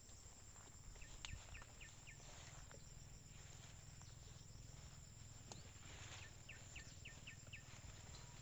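Quiet outdoor ambience with faint scattered snaps and rustles, and a bird giving two short runs of about five quick, high notes, one about a second in and another after about six and a half seconds.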